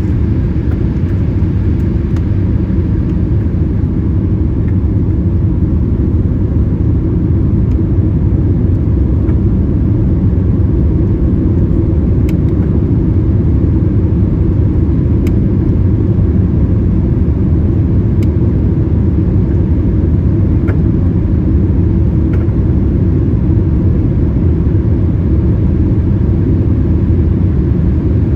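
Steady low rumble of a Boeing 787-8 heard from inside the passenger cabin, with a few faint ticks.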